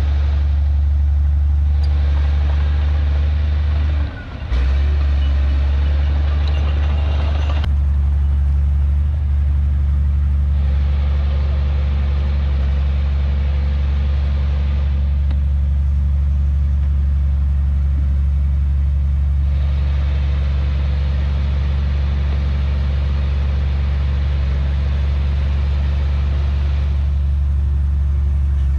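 Heavy diesel engine of earthmoving machinery running steadily with a strong, low drone. A higher, noisier layer rises and falls over it in long stretches, and the sound drops out briefly about four seconds in.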